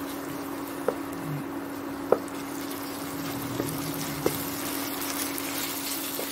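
Chopped French beans and ginger-garlic paste sizzling in hot oil in a pan while a wooden spatula stirs them, knocking against the pan about three times. A steady low hum runs underneath.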